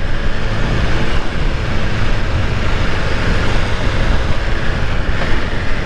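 BMW S1000RR sport bike being ridden at a steady speed: a continuous rush of wind and road noise with the motorcycle's inline-four engine running underneath.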